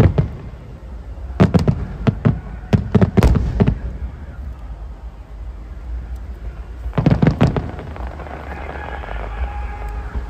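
Aerial firework shells bursting in volleys of sharp bangs: a cluster from about a second and a half to nearly four seconds in, then a quieter stretch, then another quick cluster at about seven seconds.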